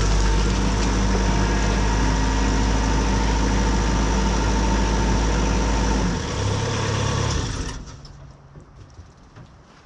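Sawmill engine running steadily; about six seconds in its pitch shifts, and about eight seconds in it stops and the sound dies away.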